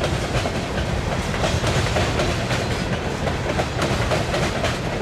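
Freight cars of a mixed freight train rolling past at close range, the wheels clicking over the rail joints with a steady run of clacks and rattles.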